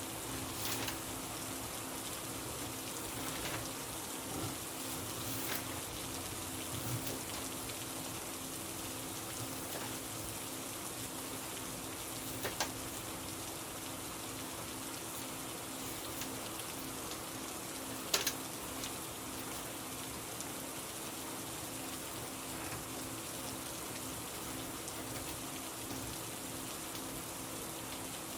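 Steady rain falling on a surface, an even patter throughout, with a steady low hum under it and a few sharp clicks, the loudest about eighteen seconds in.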